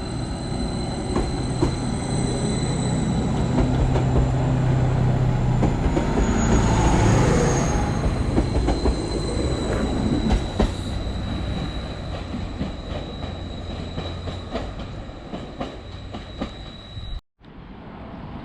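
Class 755 multiple unit moving slowly on the track, its wheels squealing in a steady high tone over a low engine hum, with clicks from the wheels on the rails. It grows loudest about seven seconds in, then eases off, and cuts out sharply near the end.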